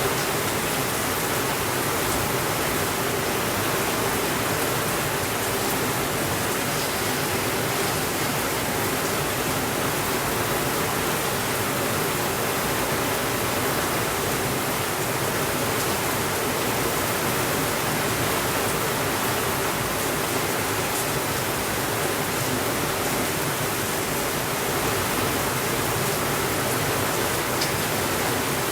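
Steady rainfall, an even hiss that holds at one level without breaks or thunder.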